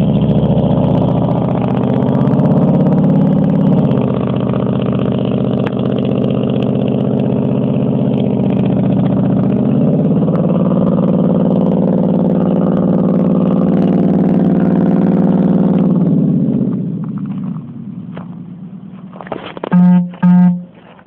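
Ford F-150's 4.6 L V8 through a true dual exhaust with no catalytic converters, running hard under throttle. Its note shifts twice, then it fades away about seventeen seconds in. Near the end come two short, loud tones.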